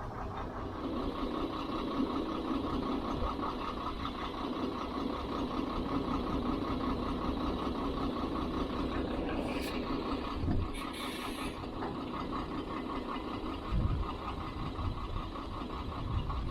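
DAF recovery truck's diesel engine running steadily. Two short hisses come about two-thirds of the way through, with a couple of dull thumps.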